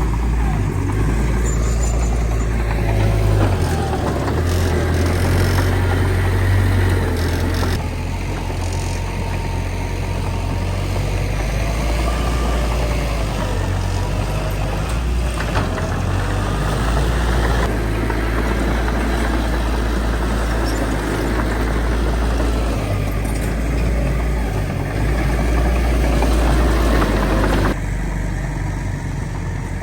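Heavy diesel engine of a bulldozer working, its deep note swelling and easing with the load, with a few short metallic clanks.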